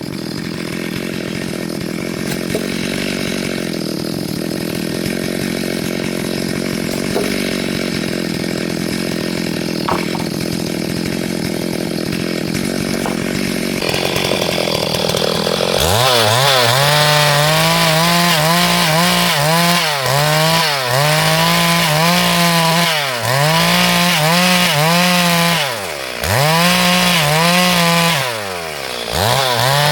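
A two-stroke chainsaw cuts lengthwise through a log to mill it into ribs. It runs steadily for the first half, then gets louder at high revs from about halfway. In the second half the pitch dips and comes back up four times.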